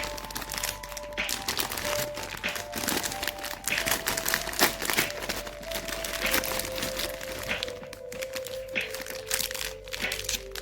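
Plastic snack wrappers crinkling and crackling as packets are handled and torn open, with a dense run of sharp crackles, over soft background music with a slow melody of held notes.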